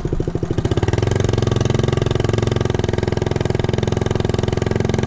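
1969 Honda Z50 mini bike's small single-cylinder four-stroke engine picking up revs over the first second, then running at a steady speed under way.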